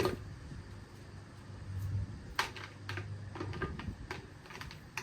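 Scattered light clicks of a mountain bike chain being handled and checked, a chain that is a little rusty but has no frozen links, over a faint low hum.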